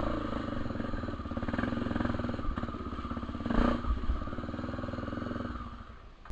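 Dirt bike engine running steadily with a fast even beat, with a few knocks and clatter partway through, before it dies away near the end.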